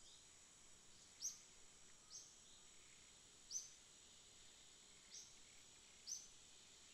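Faint rainforest night ambience: a steady high insect drone, with five short, high, falling chirps spaced about a second or so apart.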